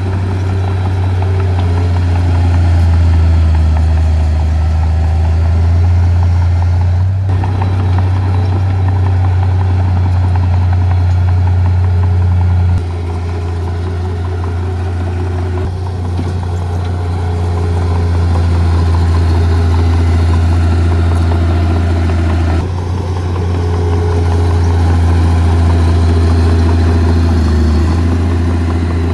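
Diesel engine of heavy earth-moving equipment running steadily with a strong low drone, its level shifting abruptly a few times.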